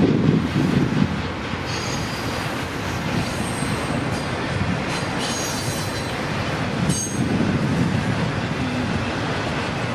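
Freight train cars rolling past with a steady rumble, and brief high-pitched wheel squeals a few times.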